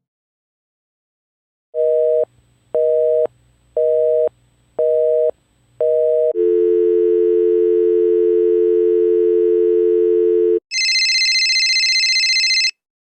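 Telephone line tones: a busy signal sounds as five short two-tone beeps about a second apart, then a steady dial tone holds for about four seconds. Near the end it gives way to a shrill high-pitched tone for about two seconds.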